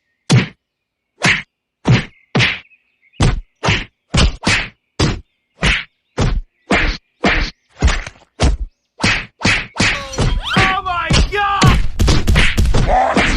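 A long series of sharp whacks or knocks, about two a second with silence between them. Near the end they run together with other pitched sounds.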